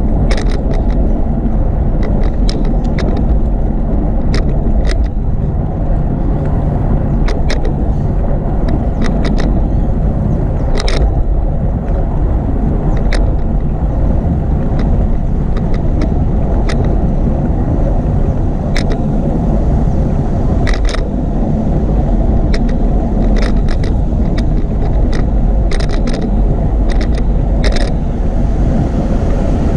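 Steady low rumble of wind and road noise on the camera microphone of a bicycle being ridden, with many short clicks and rattles scattered through it as the bike goes over the path.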